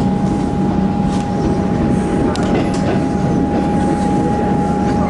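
Electric suburban train at a station platform, its equipment giving a steady hum with a constant high-pitched whine.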